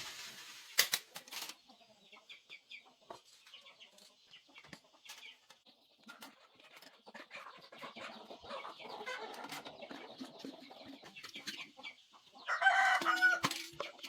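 Chickens clucking, with scattered light clicks and knocks. A louder pitched call comes near the end.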